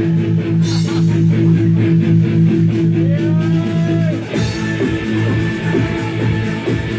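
Live rock band playing loudly: electric guitars hold sustained chords, with a bending note about three seconds in. From about then a cymbal beats a steady rhythm over them.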